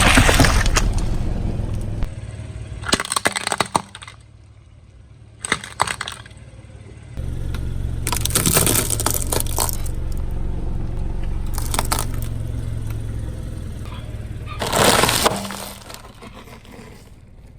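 A car tyre rolls over brittle objects, crushing them in several sudden bursts of cracking and crunching. A car engine runs underneath, dropping out for a few seconds early on.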